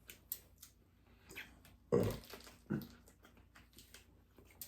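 Close-miked eating sounds: chewing and small crunches of crispy chicken and bacon lettuce wraps, with scattered short clicks. Two short, low mouth noises come about two seconds in.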